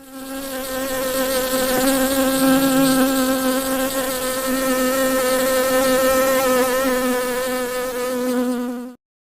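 Honeybee buzzing in flight, a steady, slightly wavering drone that cuts off suddenly near the end.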